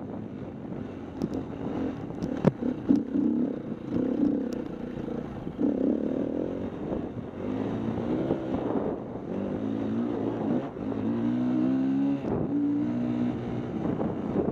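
KTM 250 EXC-F dirt bike's four-stroke single-cylinder engine, revving up and down as the throttle is worked over the course. Its pitch climbs and steps repeatedly, like gear changes. There is a sharp knock about two and a half seconds in.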